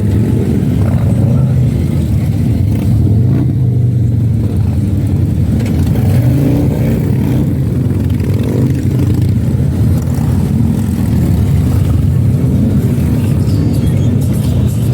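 Harley-Davidson motorcycle engines running, a loud, steady low rumble.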